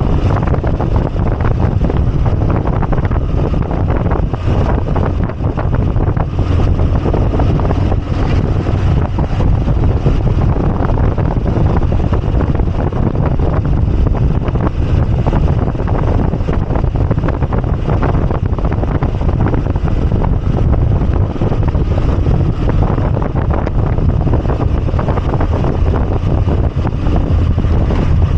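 Moto Guzzi V85TT's air-cooled V-twin engine running steadily under way, with wind buffeting the microphone.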